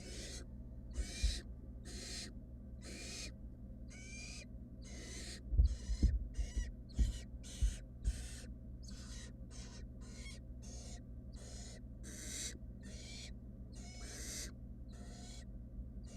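Barn owl nestlings giving their rasping, hissing begging calls ('snoring'), short bursts repeated about two a second. A few low thumps come about halfway through.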